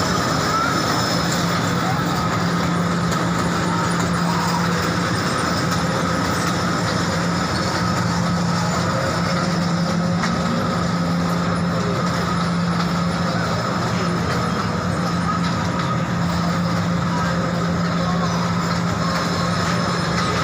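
Train running steadily, heard from on board: an even rumble with a steady low hum.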